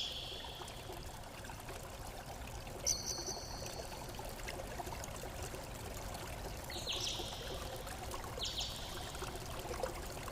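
Water trickling steadily, like a small stream, while a bird gives three short high calls: about three seconds in, then twice in the second half.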